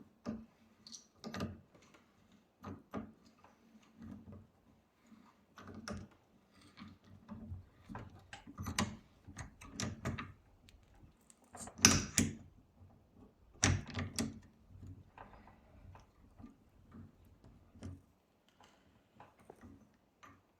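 Irregular knocks, clicks and clunks of tools and parts being handled during brake work, with two louder strikes about twelve and fourteen seconds in.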